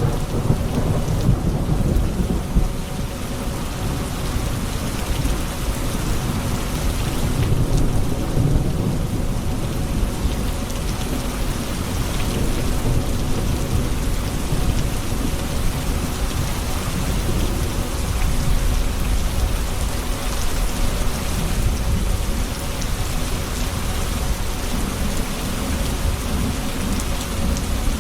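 Rain falling steadily with a continuous low rumble of thunder underneath.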